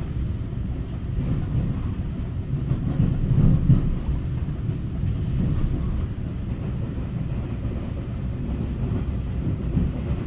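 Cabin noise of a Taiwan Railway EMU900 electric multiple unit on the move: a steady low rumble of wheels on rail heard from inside the carriage.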